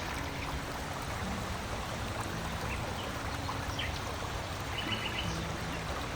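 A steady rushing noise with a water-like character, under soft held low music notes that step from one pitch to another. A short high bird chirp comes about five seconds in.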